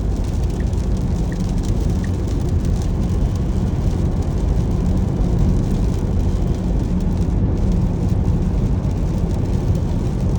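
Steady tyre and road noise of a Tesla Model S Plaid driving on a rain-soaked highway, heard from inside the cabin, with water spray and rain on the car. A few faint ticks come about two-thirds of a second apart in the first two seconds.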